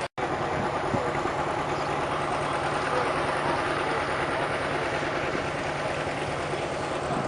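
Vintage tractor engine idling steadily, with a constant low hum, after a split-second dropout right at the start.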